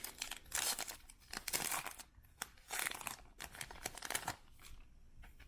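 Foil wrapper of a baseball card pack being torn open and crinkled, a run of irregular crackles that stops about four seconds in.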